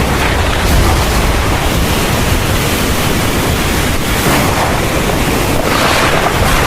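Heavy rain pouring steadily in a thunderstorm, with a constant low rumble underneath and brief swells of heavier downpour about four seconds in and again near the end.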